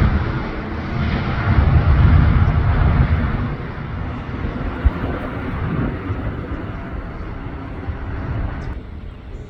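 Jet airliner's engines after takeoff, a heavy low rumble that fades as the aircraft climbs away, with one brief knock about five seconds in.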